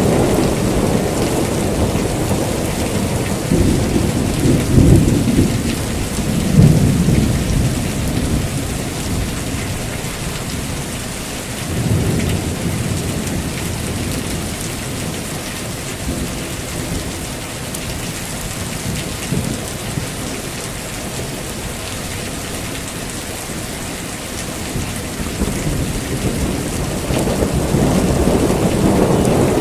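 Heavy rain falling steadily, with rolling thunder rumbling loudest about 4 to 8 seconds in, a smaller rumble near 12 seconds, and thunder building again near the end.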